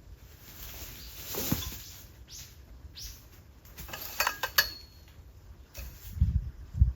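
Objects being handled: scattered knocks and light clinks, a quick cluster of clinks about four seconds in with one short ringing metallic note, then two dull thumps near the end.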